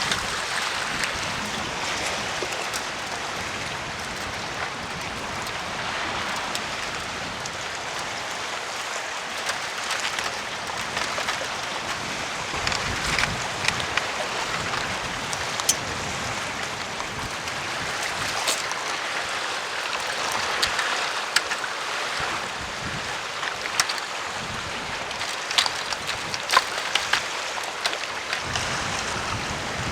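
Steady rush of sea waves and wind on the shore, with scattered light clicks and knocks.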